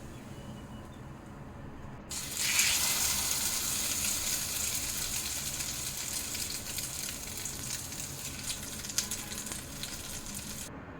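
Food frying in a hot pan. A faint sizzle becomes a loud one suddenly about two seconds in, slowly dies down, then cuts off abruptly just before the end.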